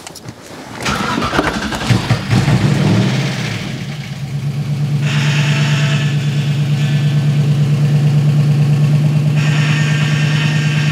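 V8 engine in a Porsche 986 Boxster cranks on the starter, catches about a second in, revs up briefly and settles into a steady idle. From about halfway a rough, higher-pitched noise from the power steering pump sounds over the idle, which the owner puts down to the pump still being low on fluid.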